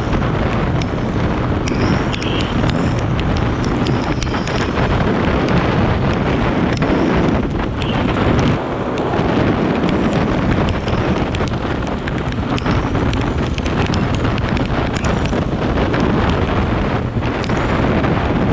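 Steady wind rumble buffeting the microphone of a moving motorcycle ride, with vehicle and road noise underneath.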